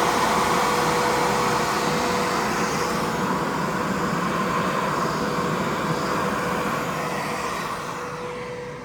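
Steady whirring of an enclosure-mounted heat-pump air conditioner running in cooling mode with its compressor on, carrying a constant hum-like tone; it grows quieter near the end.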